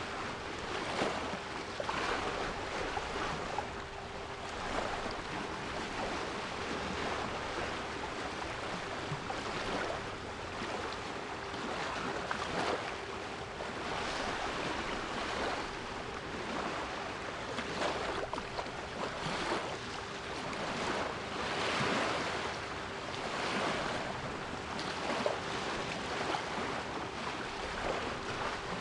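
Sea waves washing in and breaking in repeated surges every few seconds. Beneath them runs a steady, quieter 396 Hz pure tone.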